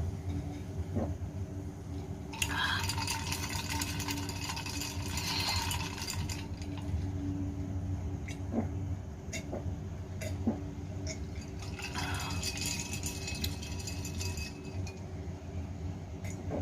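A person drinking a cold drink in two long draws, about three seconds in and again near twelve seconds, with glass clinks and small knocks between them, over a steady low hum.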